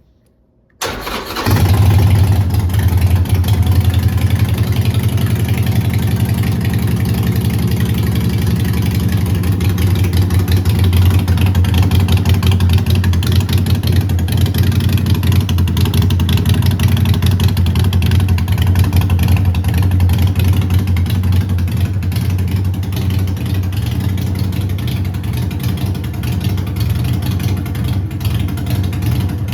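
Harley-Davidson SuperLow 1200T's air-cooled 1200 cc Evolution V-twin started on the electric starter: a brief crank about a second in, then it catches and settles into a steady, loud idle.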